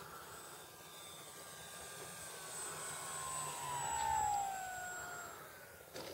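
Electric radio-controlled model airplane's motor and propeller whining overhead, growing louder to a peak about four seconds in while falling steadily in pitch, then fading.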